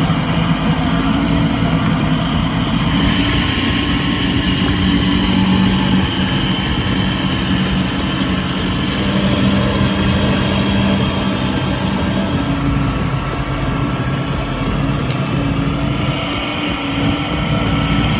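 Heavy truck's diesel engine running steadily under load, a low, even engine note.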